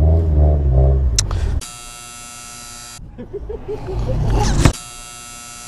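A steady electronic buzz that starts and stops abruptly, sounding twice for about a second and a half each, after a low rumbling that fills the first second and a half; the rumbling returns between the two buzzes, ending in a sharp click.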